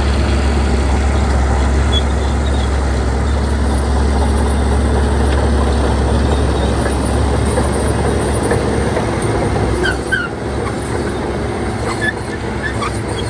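Bulldozer diesel engine running steadily with a deep, constant drone; about ten seconds in the low drone drops away and a few short high squeaks are heard.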